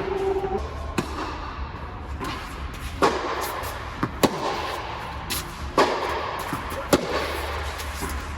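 Tennis ball being hit with racquets and bouncing on a court during a rally: five sharp pops, about one to two seconds apart.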